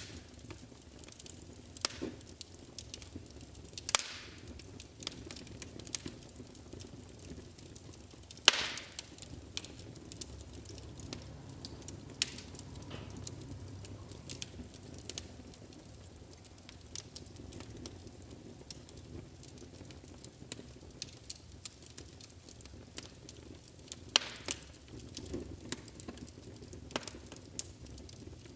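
Wood fire burning in a fireplace, crackling with frequent small snaps and a few louder pops, the loudest about eight seconds in, over a steady low rumble of the flames.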